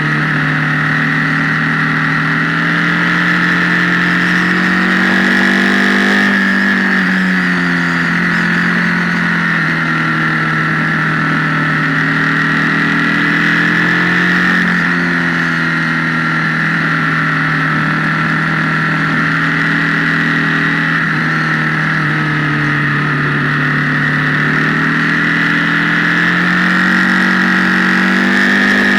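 Motorcycle engine running steadily at moderate revs, heard from the bike's own camera, its pitch rising and falling gently with the throttle. The recording gives it a harsh, amplified tone, like a Marshall amp.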